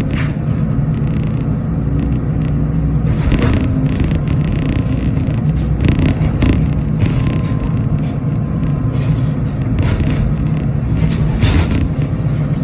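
Excavator's diesel engine running steadily, with intermittent knocks and scrapes from demolition work about every few seconds.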